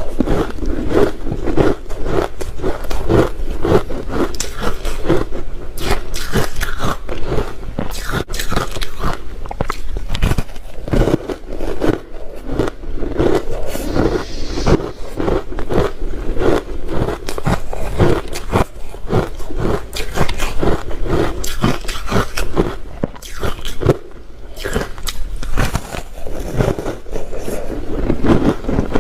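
Close-up crunching and chewing of soft crunchy ice dusted with matcha powder, with rapid, dense crunches throughout.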